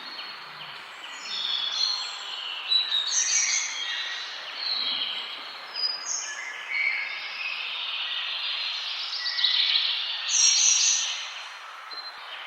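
Many birds singing and chirping together in a forest dawn-chorus mix: overlapping short, high calls and song phrases over a steady background hiss.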